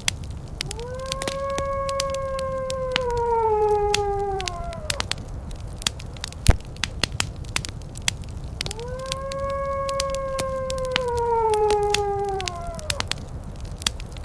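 A canine howl, twice: each one long call of about four seconds that rises quickly, holds a steady pitch, then sags and stops. Under it, wood fire crackling in a fireplace, with steady sharp snaps throughout.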